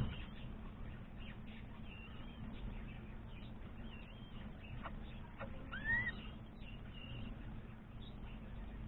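Aviary birds chirping faintly, with short high chirps scattered throughout and one clearer rising call about six seconds in, over a steady low hum.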